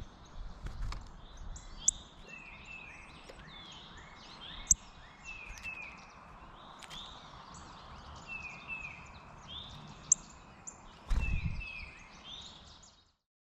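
Wild songbirds calling: a run of short whistled notes, each sliding downward in pitch, repeated over and over. A few sharp clicks and a low thump near the end, then the sound cuts off.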